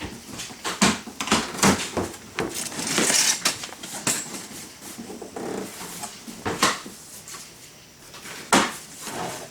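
A cardboard shipping box being opened and handled, with irregular knocks, scrapes and rustles of cardboard and packaging. A few sharp knocks stand out, and there is a short rushing stretch about three seconds in.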